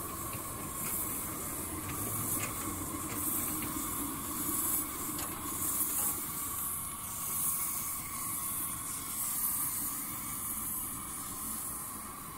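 Steam hissing from a small 7.5-inch-gauge live steam locomotive, rising and falling in uneven surges, over a faint steady tone. A few light clicks come in the first few seconds.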